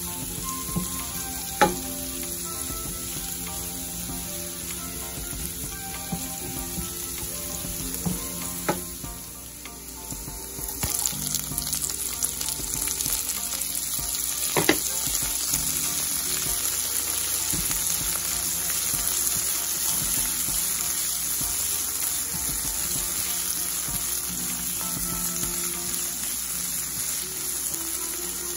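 Chopped onion sizzling in hot oil in a pan, stirred with a silicone spatula that knocks against the pan a few times. About eleven seconds in the sizzle grows louder and brighter as peas and diced carrots go in and are stir-fried.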